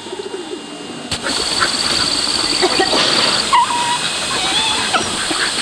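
Short bird calls over a steady outdoor hiss with scattered clicks. The sound starts abruptly about a second in.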